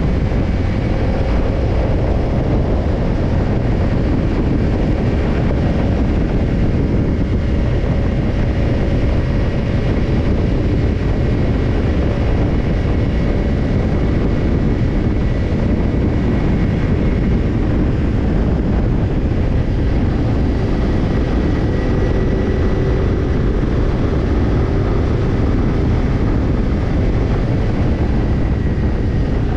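Kawasaki Ninja 250's parallel-twin engine running through a BEET NASSERT Evolution Type II black titanium slip-on muffler, holding a steady, nearly unchanging engine speed with no revving.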